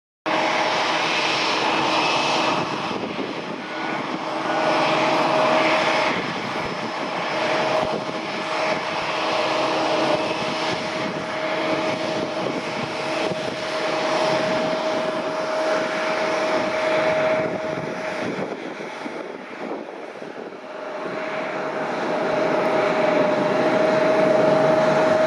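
Boeing 787-8's Rolls-Royce Trent 1000 turbofan engines running at taxi power: a steady whine over a broad jet rush. The sound eases off about twenty seconds in, then swells again near the end.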